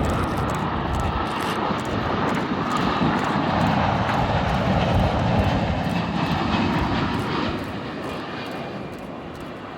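Qantas Boeing 787-9 airliner on final approach passing close by, its jet engines a loud rushing noise that swells to a peak about halfway through, with a faint engine whine, then fades over the last couple of seconds.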